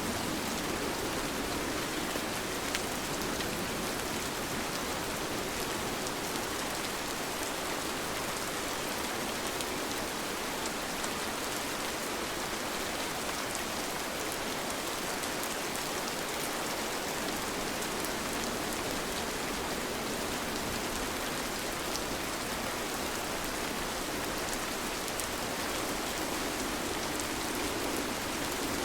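Steady rain falling, a dense even hiss of drops with faint scattered ticks of single drops.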